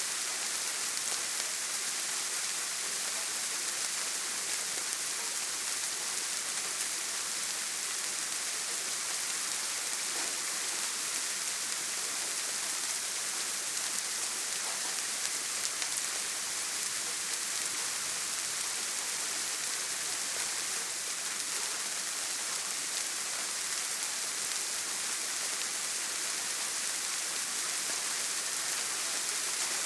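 Steady heavy rain falling on a tin roof: a dense, even hiss of drops that does not let up.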